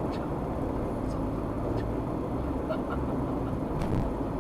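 Steady low rumble of a car driving along the road, with a few faint clicks.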